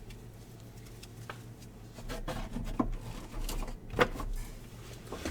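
Handling noise on a table: scattered light knocks, taps and rustling as trading-card pack wrappers and boxes are moved, with the sharpest knock about four seconds in.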